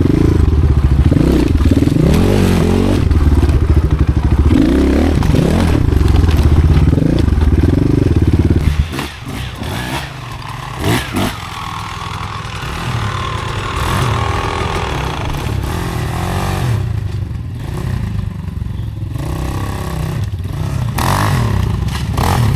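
Off-road motorcycle engine revving hard in repeated bursts, the pitch rising and falling, for about nine seconds. It then drops to lower, quieter running, with a couple of sharp knocks around eleven seconds in.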